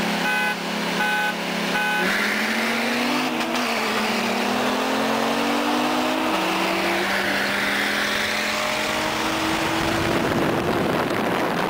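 Sports car accelerating hard after three short beeps, engine pitch climbing, dropping at a gear change about six seconds in, then climbing again through the next gear.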